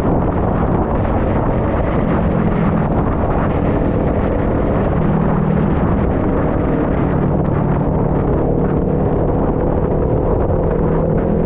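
Kawasaki Ninja 400's parallel-twin engine running at a steady speed while riding, heavily covered by wind rushing over the microphone.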